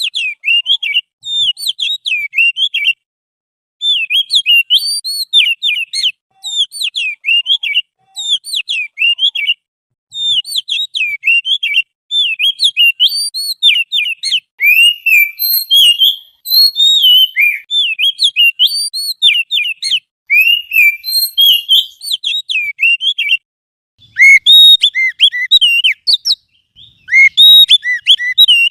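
Recorded songbird song for training cage birds: quick runs of chirps and short whistled notes, phrase after phrase with brief pauses, loudest near the end.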